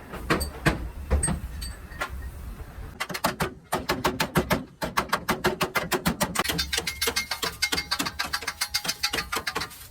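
Hammer blows on metal, ringing. There are a few separate strikes at first, then from about three seconds in a fast, steady run of about six or more blows a second, typical of panel-beating the truck's bodywork.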